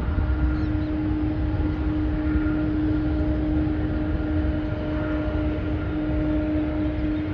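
Jet airliner engines running steadily: a low rumble with a constant hum held at one pitch, neither rising nor falling.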